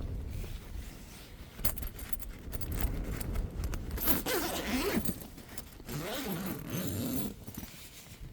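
Hilleberg Jannu tent zip being pulled open in several rasping strokes, its pitch sliding up and down with the pull, over a low rumble of wind.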